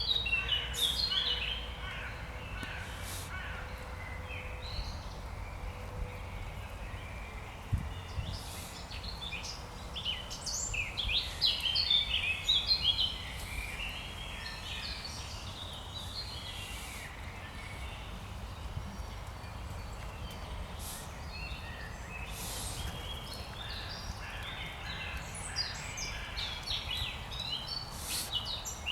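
Songbirds singing in repeated short phrases of quick high notes, with the loudest run a third of the way in and more near the end, over a steady low background rumble.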